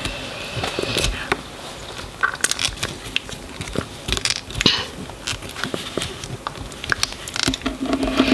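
Small plastic toy doll and its outfit being handled: scattered light clicks, taps and rustling crackles as the doll's feet are pushed into the clothing.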